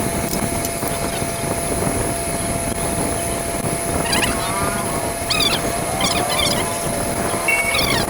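Bajaj CT 100 motorcycle's single-cylinder engine running with a steady rumble, while birds chirp several times over it.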